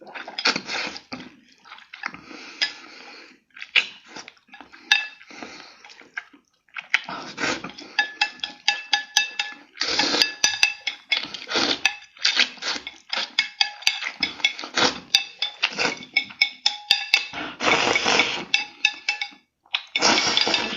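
Close-miked eating of spicy instant noodles: quick wet slurps and chewing in irregular bursts, several a second, with small sharp clicks of utensils against the bowl.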